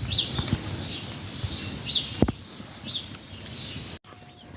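Small birds chirping in short, repeated high calls, with a light knock about halfway through.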